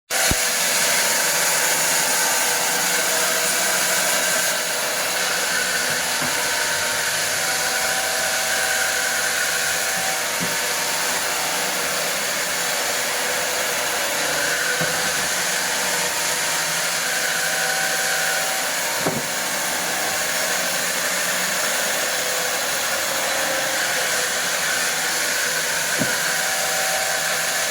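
Wood-cutting machine running with a steady whirring hiss throughout, with a few faint clicks.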